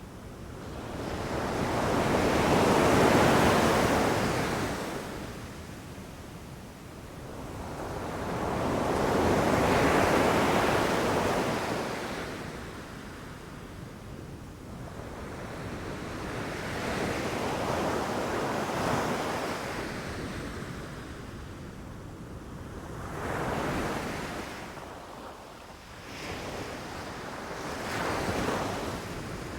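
Ocean waves breaking on a beach, each wave swelling into a surge of surf and washing back, about every six to seven seconds; the two biggest break early on, with smaller ones later. A light wind noise lies under the surf.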